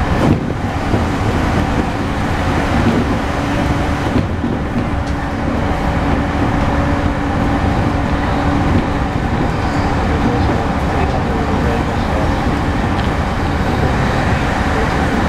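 Inside a moving E231 series suburban electric train car with Hitachi IGBT-VVVF drive: a steady rumble of wheels on the rails and running gear at speed, with a faint steady hum underneath.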